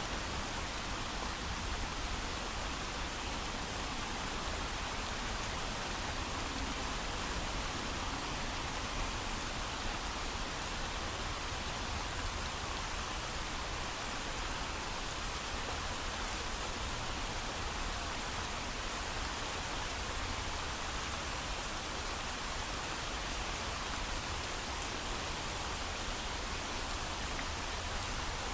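Steady heavy rain with no thunder, an even hiss of falling rain.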